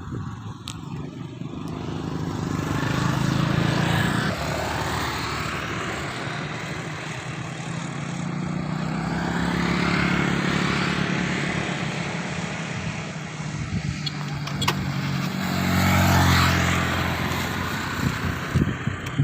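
Motor vehicles on a road passing by one after another: three passes, each growing louder as the engine and tyres approach and then fading away.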